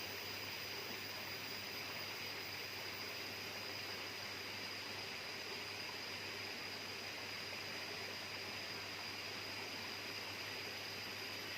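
Steady jungle ambience: an even hiss like running water, with a thin, steady high-pitched tone over it and a low hum beneath.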